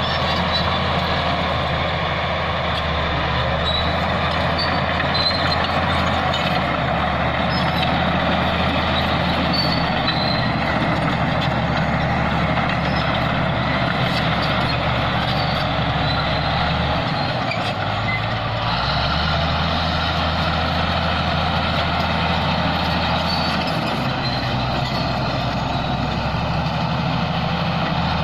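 Bulldozer's diesel engine running steadily under test, with short high squeals now and then and a brief change in the engine note a little past halfway.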